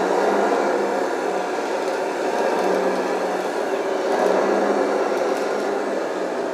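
Hydraulic RC bulldozer running steadily under load, its hydraulic pump and track drive whirring as it pushes a bladeful of sand.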